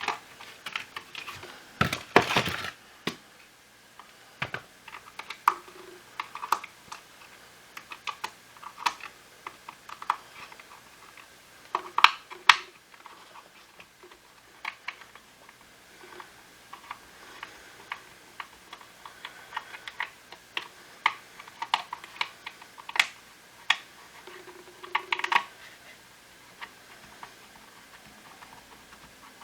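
Irregular clicks and taps of plastic parts and small tools being handled while a Shark IF250uk cordless vacuum is taken apart, with louder clattering bursts about two seconds in, around twelve seconds and near twenty-five seconds.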